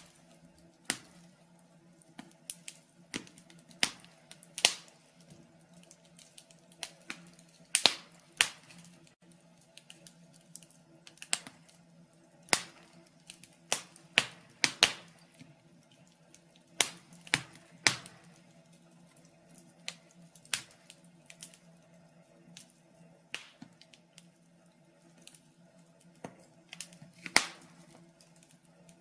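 Wood fire crackling in a fireplace: irregular sharp pops and snaps, sometimes several close together, over a faint steady low hum.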